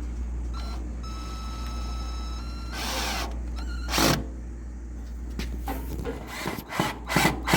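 Cordless drill driving a screw into a plastic lock box, a steady whine for about a second and a half, followed by a burst of noise, a sharp knock and a run of knocks and clatter near the end. A steady low hum runs underneath.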